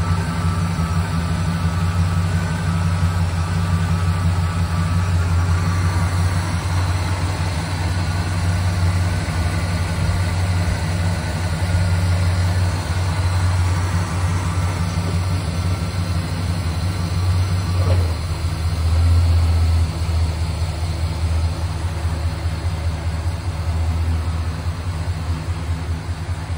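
1967 Pontiac GTO's 400 cubic-inch V8 idling steadily on the cold engine just after a cold start, briefly louder about 19 seconds in.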